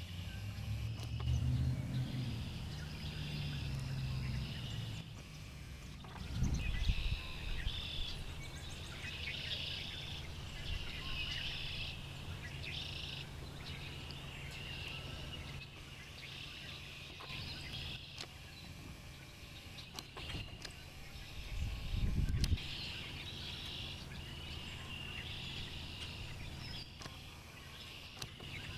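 Songbirds singing, with short repeated phrases that come and go, over a steady low rumble that swells into two louder bursts, about a quarter of the way in and again about three quarters of the way in.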